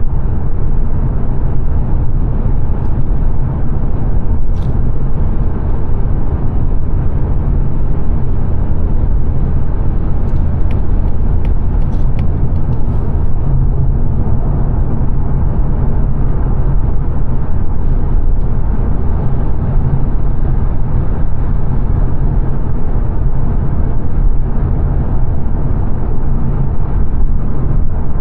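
Steady road and tyre noise with engine hum inside a 2022 Mazda 3 saloon's cabin, cruising on a fast dual carriageway.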